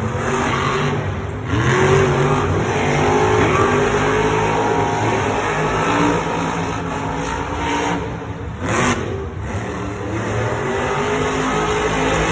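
Monster truck engines revving hard and shifting in pitch during a race, heard loud over a stadium's noise.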